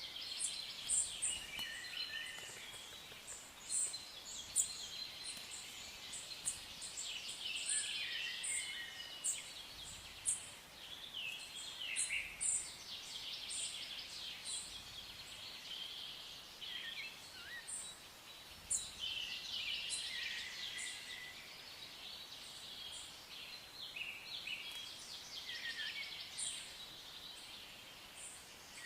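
Several songbirds singing and calling at once: overlapping trills and chirps, with many short, high, repeated notes.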